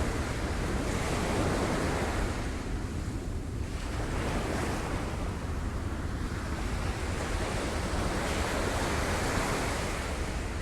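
Sea waves breaking on rocks: a continuous wash of surf that swells and eases every few seconds, over a steady low rumble.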